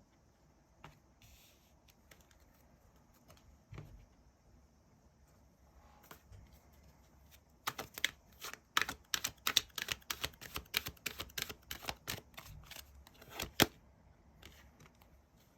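Tarot cards being shuffled and handled: after a quiet stretch, a quick run of sharp snapping taps, about three or four a second, for some six seconds, ending with one loudest snap.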